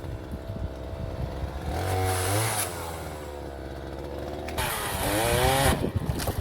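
Two-stroke chainsaw revved up twice, about two seconds in and again near the end, each burst lasting about a second, and dropping back toward idle in between.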